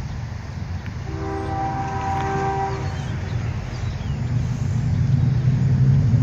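CSX freight diesel locomotives rumbling, with one multi-chime air horn blast about a second in that lasts about two seconds. The engine rumble grows louder toward the end.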